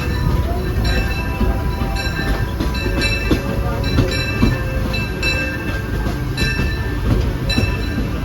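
Disneyland Railroad steam train under way, heard from a passenger car: a steady low rumble with repeated clicks from the wheels, about two a second at times.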